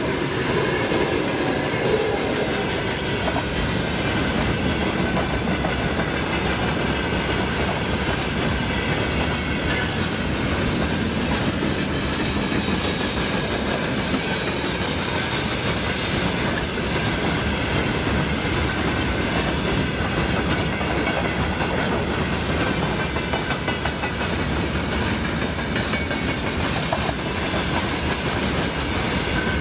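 Passenger train hauled by an EP2K electric locomotive running past, a steady loud rumble of wheels on rails with irregular clicks and faint high ringing tones from the wheels.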